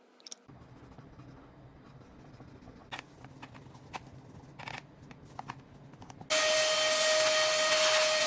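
Faint scraping and light clicks as old waterproof adhesive is cleaned off the phone's midframe edge. About six seconds in, a small handheld power tool switches on abruptly and runs with a steady whine and hiss.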